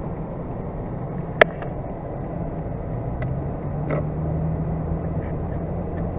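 A vehicle running on the road: a steady low engine and road rumble, with a sharp click about one and a half seconds in. A steadier engine note comes up about three seconds in.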